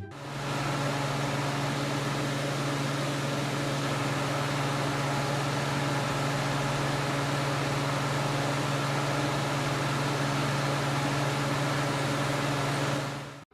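A steady machine hum, a small motor running with a constant low pitch over an even hiss, that cuts off suddenly near the end.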